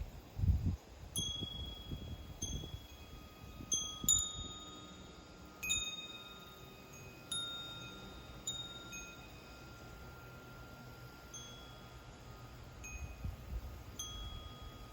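Wind chimes ringing: about ten scattered strikes, each leaving a few clear high tones that fade slowly. Low rumbling comes under them in the first few seconds and again near the end.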